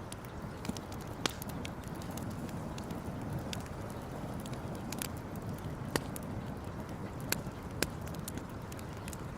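Wood campfire crackling, with irregular sharp pops, the loudest about six seconds in, over a steady low rush.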